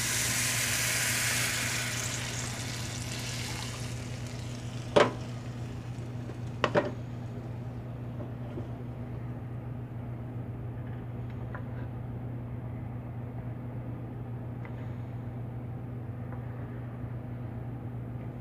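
Water poured into a hot pan of rice fried in butter, hissing and sizzling loudly for the first few seconds, then dying down to a faint simmer. Two sharp knocks come about five and seven seconds in, over a steady low hum.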